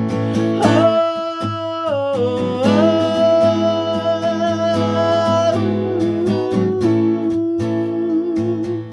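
Acoustic guitar strumming steadily under a wordless sung melody: long held notes that slide from one pitch to the next.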